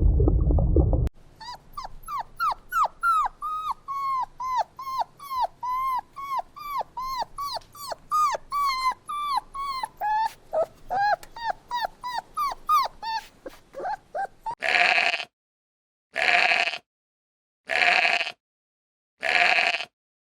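Animal calls in two runs. First comes a long series of short, squeaky calls, each falling in pitch, about three a second. Then come loud, harsh honk-like calls about a second and a half apart. A deep rumble cuts off about a second in.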